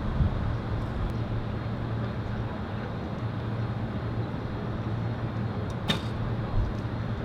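Steady low rumble of wind on the microphone, with a single sharp crack about six seconds in from a recurve bow being shot.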